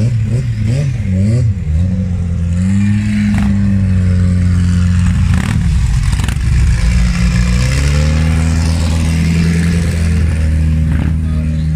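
Loud car engine blipped in a few quick revs, then held at a steady rev and later settling to a lower, steady idle. A few sharp knocks are heard along the way.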